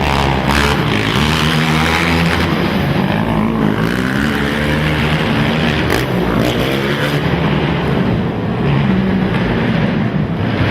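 Several racing ATV (quad) engines revving on the track, overlapping, their pitch repeatedly rising and falling as riders work the throttle.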